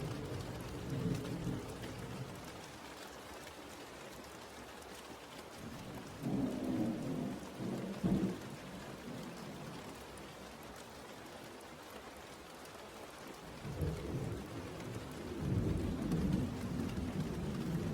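Steady rain falling, with rolls of thunder rumbling low: one about six seconds in and another building from around fourteen seconds on.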